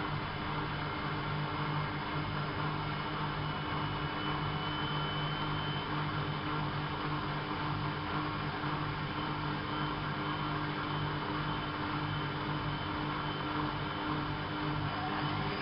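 Bauknecht WAP 6460 washing machine running with a steady motor hum and a faint high whine.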